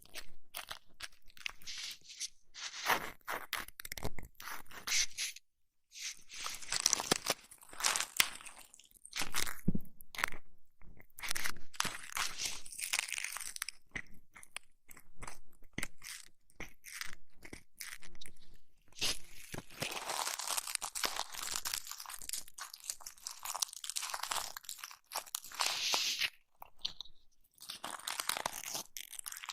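Close-miked ASMR ear massage and cleaning sounds: irregular crackly rubbing and scratching full of small clicks, pausing briefly about six seconds in.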